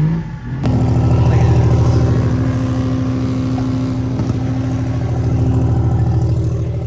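Diesel pickup engine running loud and steady at a constant speed, cutting in abruptly just after the start and easing off slightly near the end.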